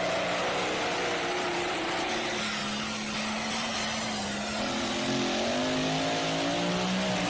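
Work stock diesel pickup truck's engine running hard under load over a steady rush of noise, its pitch wavering and climbing a little in the second half.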